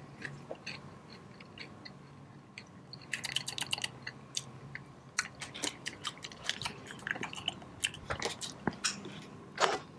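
A person chewing a Goldfish cheese cracker, quiet at first, then a rapid run of small crisp crunches from about three seconds in.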